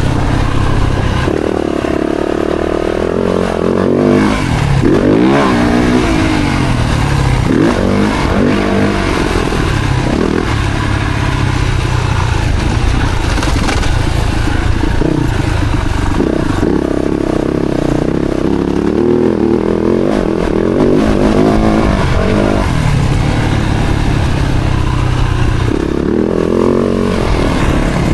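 Yamaha YZ-F four-stroke motocross bike engine, ridden hard, its pitch climbing and dropping again and again as the throttle is opened and chopped and the rider shifts gears.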